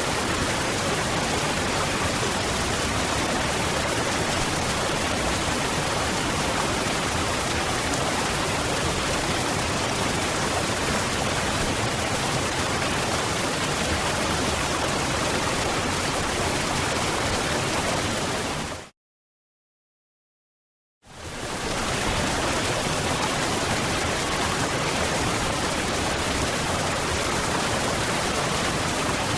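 Waterfall: a steady, even rush of falling water. About two-thirds of the way through it fades out to complete silence for about two seconds, then fades back in.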